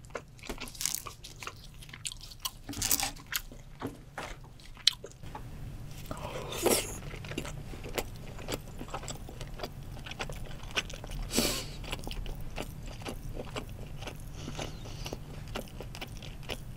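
Close-miked chewing and biting of grilled sea bream head: a run of crisp crunches and mouth clicks, the loudest about 3, 7 and 11 seconds in.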